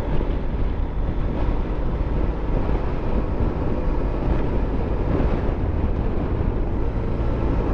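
Motorcycle riding at a steady speed: a steady rumble of engine and road with wind rushing over the rider's microphone.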